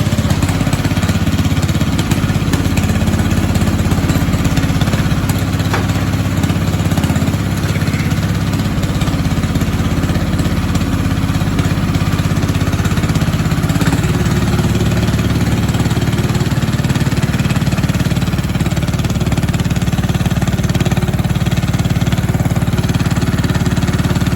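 Small diesel garden-tractor engine running steadily just after a cold start; its tone shifts about fourteen seconds in, then holds.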